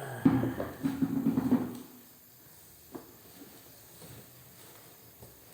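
A packaged toy truck being pulled out of its cardboard box: about two seconds of loud scraping and squeaking of packing against cardboard, with a sharp knock near the start, then a single click about three seconds in.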